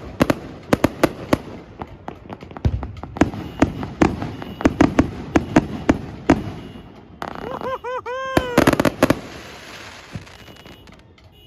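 Fireworks and firecrackers going off: a rapid string of sharp bangs, several a second, for about seven seconds, then a short warbling whistle about eight seconds in, after which the bangs die away.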